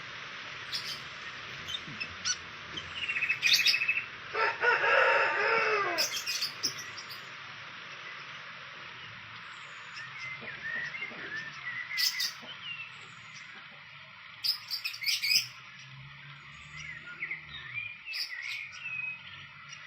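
Small birds chirping in short scattered calls, with a rooster crowing once about four seconds in, the loudest sound, falling in pitch at its end. A steady high hiss runs underneath.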